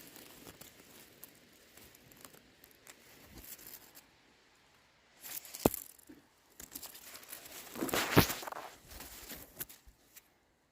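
Rustling, tearing and crackling of moss and forest-floor undergrowth handled up close as a mushroom is picked by hand, quiet at first with two louder bursts about halfway and near the end.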